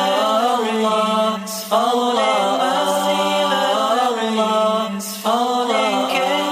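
Voices singing a nasheed chant, drawing out long melismatic 'Allah' phrases, with new phrases beginning about two seconds in and again near five seconds.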